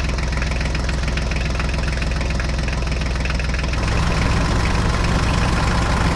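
An engine running steadily at idle, its note shifting and getting slightly louder about four seconds in.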